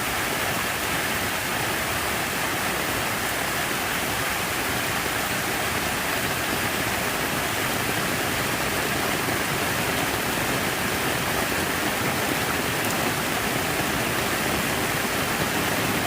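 Steady, unbroken rush of falling water, an even hiss with no change in level.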